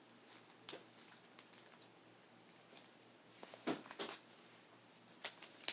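Faint, scattered rustles and taps of Pokémon cards and booster packs being handled, with a couple of louder ones about three and a half to four seconds in.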